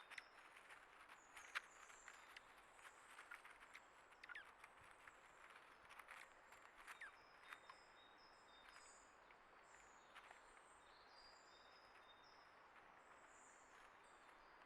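Faint, high, thin chirps of small songbirds, repeated throughout, with scattered light ticks and taps in the first half; the sharpest comes about a second and a half in.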